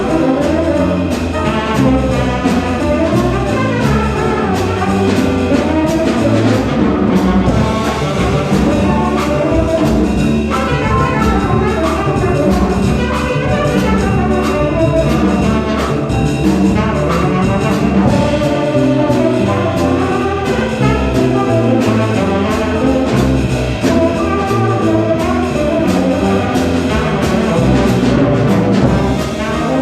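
A small jazz band playing live at a steady medium tempo, with bass notes stepping along under the melody.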